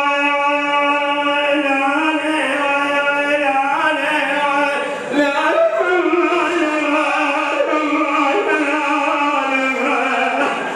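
Wordless male vocal chanting in long held notes, layered like a choir, in the style of an Iraqi Shia religious chant (latmiya); the pitch steps to a new note every second or two, with a short break about halfway.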